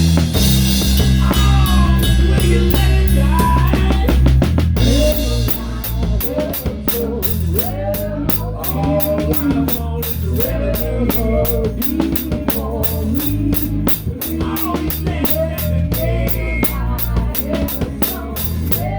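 Live rock band playing, heard close to a Pearl drum kit whose snare is damped with a towel. For the first five seconds a loud held chord rings with a cymbal wash, then the drums settle into a steady beat under bass and a wavering melody line.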